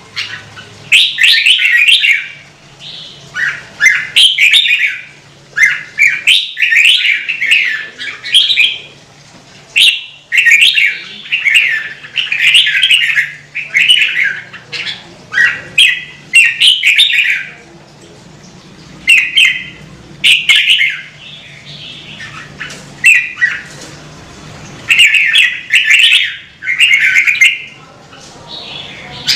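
Red-whiskered bulbul singing: bright, fast warbling phrases in quick bursts, one after another, with short pauses between them and a longer pause about two-thirds of the way through.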